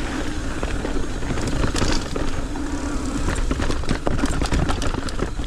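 Mountain bike riding fast down a rough dirt trail: wind rumble on the microphone, tyres rolling over dirt and rocks, and sharp clicks and knocks from the bike over bumps, with a steady hum for the first three seconds or so.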